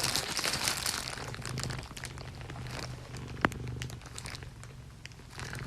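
A cat purring close up: a steady low pulsing hum with crackly rustling over it.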